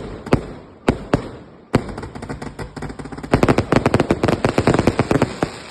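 Fireworks going off: a few separate sharp bangs, then from about two seconds in a fast, dense run of cracks that is loudest in the second half before easing off near the end.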